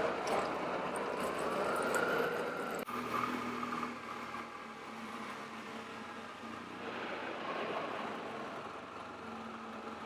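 Vehicle engines running in a ferry boarding lane, with an abrupt change about three seconds in to a steadier, quieter engine hum.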